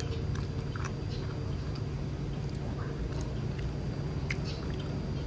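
Chewing a bite of pork sausage: scattered soft mouth clicks over a steady low background hum.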